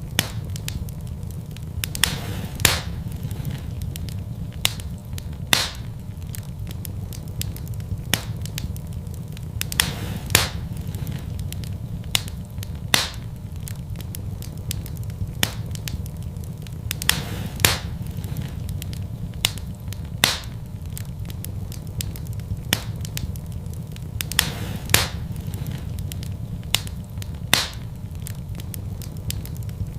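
Wood fire burning in a fireplace: a steady low rumble of flame with sharp, irregular crackles and pops from the burning logs.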